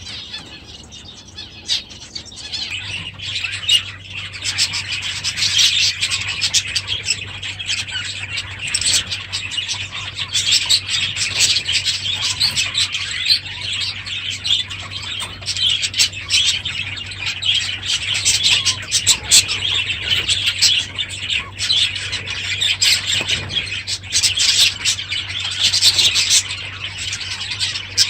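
A flock of budgerigars chattering continuously, a dense mix of many overlapping short chirps and warbles that swells louder about three seconds in. A low steady hum sits underneath from about the same point.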